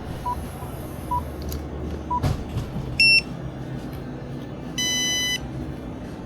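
Checkout electronics beeping: a few faint short pips, then a click, then a loud short beep and, a couple of seconds later, a longer loud beep.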